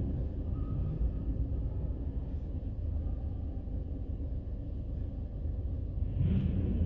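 Low, steady rumble of car engines, with a brief louder swell about six seconds in.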